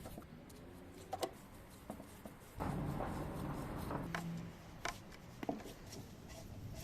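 Workshop handling sounds: scattered light clicks and knocks of tools and parts being handled, with a rough rubbing or scraping stretch lasting about a second and a half near the middle.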